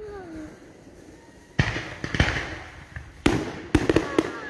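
Fireworks going off: a quick series of about five sharp bangs starting about a second and a half in, each trailing off in a short rumbling echo.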